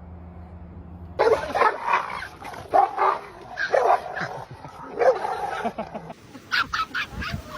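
Dog barking and yipping in a quick string of short calls, starting about a second in.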